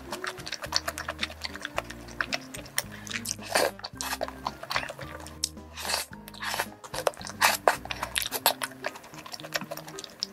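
Close-up eating sounds from creamy carbonara rice cakes: wet chewing and mouth smacking, with many sharp clicks. Background music plays underneath.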